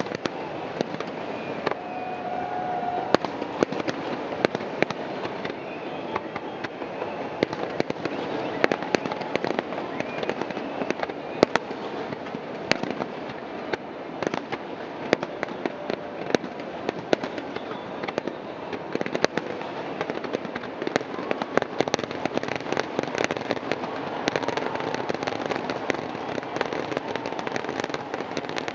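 Fireworks going off: many sharp bangs and crackles in quick, irregular succession over a steady background noise.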